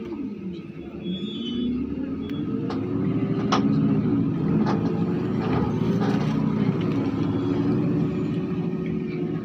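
Car engine heard from inside the cabin while driving: its pitch dips just after the start, then rises over the next few seconds as the car picks up speed, and holds steady. A few light clicks are heard.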